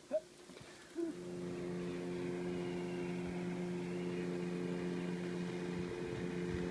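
A steady motor hum at an unchanging pitch, starting abruptly about a second in.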